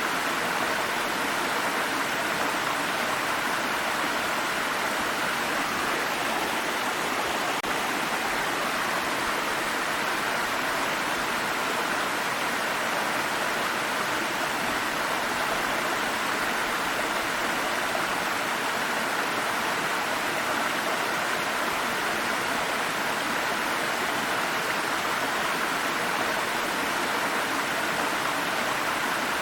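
Water stream running over rocks: a steady, even rushing and babbling.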